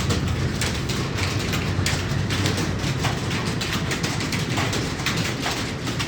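Computer keyboard being typed on, keys clicking irregularly several times a second over a steady low hum.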